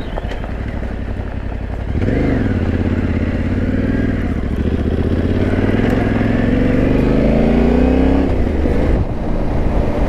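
Yamaha Ténéré 700's parallel-twin engine under way: a quick rise in revs about two seconds in, then revs climbing steadily for several seconds before falling off sharply about eight seconds in.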